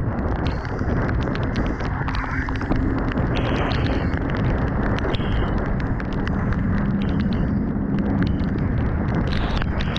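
Motorcycle riding heard from the rider's camera: wind rushing steadily over the microphone, with the Kawasaki Ninja 400's parallel-twin engine running underneath. The engine hum swells a little about three quarters of the way through, and scattered light ticks sound throughout.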